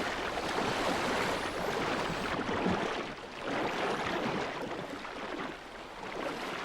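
Rushing, surging seawater, a steady hiss that swells and eases with brief lulls about three and six seconds in.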